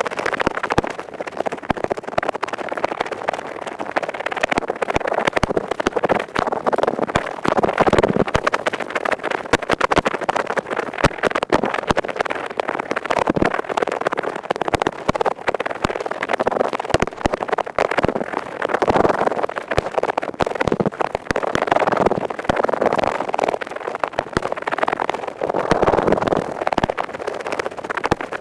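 Earpick scratching at high speed in ear-cleaning ASMR: a dense, unbroken run of rapid crackly scrapes that swells and eases every few seconds.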